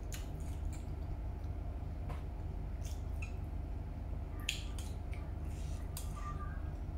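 Close wet chewing and mouth sounds from eating bakso meatballs in soup, with a few short clicks of chopsticks against a stainless steel bowl, over a steady low hum.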